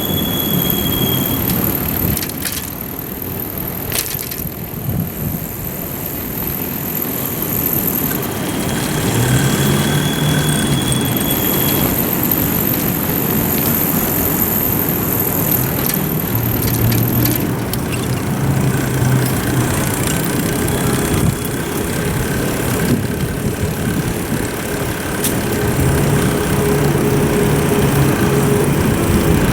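Steady rushing wind and road noise on a bicycle-mounted action camera while riding, with a few sharp clicks and rattles.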